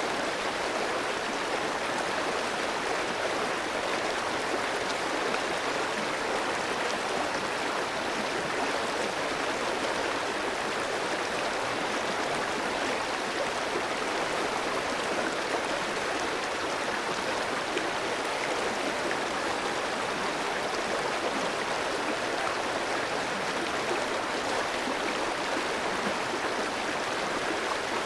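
A clear, shallow stream running over rocks: steady, even rushing and babbling water with no change.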